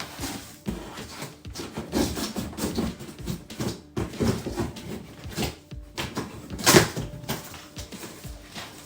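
Cardboard box and packaging of a vacuum cleaner being handled and opened: irregular knocks, scrapes and rustles, with a sharper knock near the end.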